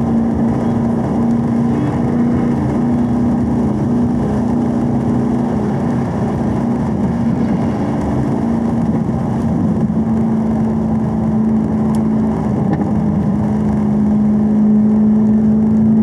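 Chevrolet Camaro's engine running steadily at about 3,300 rpm in fourth gear at around 70 mph, heard from inside the cabin: a steady low drone over road and tyre noise.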